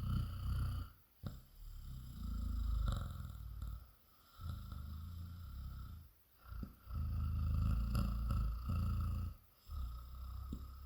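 A woman imitating a cat's purr with her voice: a low, rattling purr in about five long stretches broken by short pauses.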